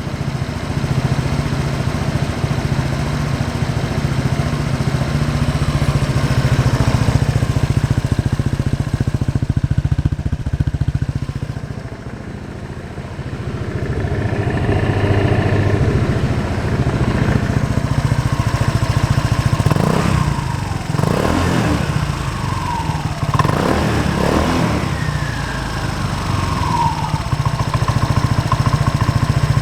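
Honda PCX125 single-cylinder scooter engine running through a BEAMS aftermarket muffler, idling with a steady low exhaust pulse. The throttle is blipped a few times in quick succession in the second half, and each blip rises and falls back to idle.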